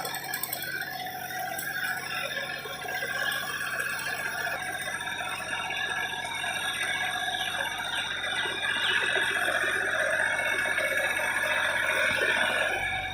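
Tractor engine running steadily while it pulls a rotavator through a paddy field, tilling the soil before rice is sown.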